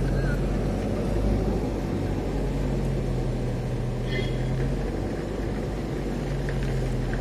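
Car engine running with a steady low hum, heard from inside the cabin while driving slowly through a flooded street.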